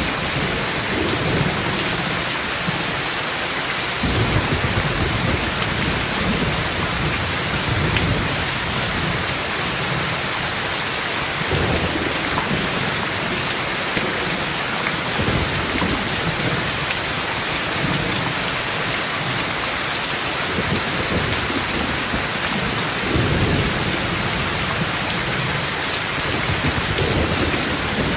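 Steady heavy rain with low thunder rumbling in several swells through the storm.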